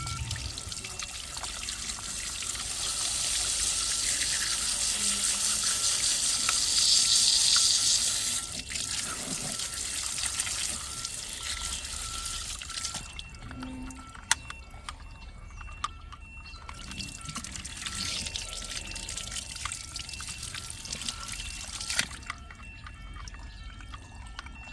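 Running water splashing, building up over the first several seconds and stopping abruptly about eight and a half seconds in. Quieter trickling and dripping follow, with a few sharp clicks.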